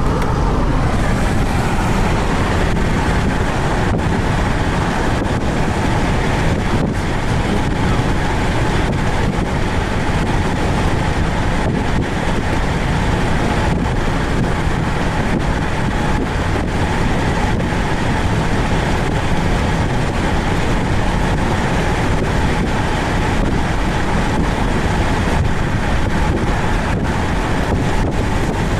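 Thunderstorm wind buffeting the microphone: a steady, loud rushing noise with heavy low rumble and scattered faint clicks.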